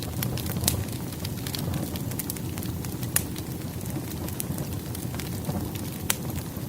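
Burning firewood: a steady low rumble of flames with irregular sharp crackles and pops.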